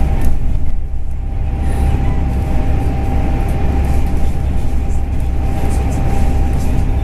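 Bus ATR212's engine and drivetrain running, heard from inside the cabin: a steady low rumble with a constant thin whine over it.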